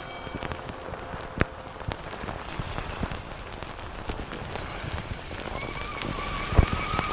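Dense, crackling rain-like patter, with a faint held tone coming in near the end.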